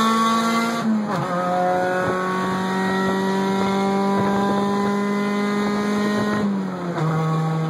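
Car engine running hard under acceleration, heard from inside the cabin. It holds a steady high drone that dips briefly about a second in, climbs slowly, then drops to a lower pitch near the end.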